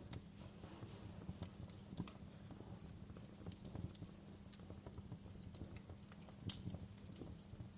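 Wood fire burning in a fireplace: irregular crackles and pops, a few sharper snaps standing out, over a low steady rumble of the flames.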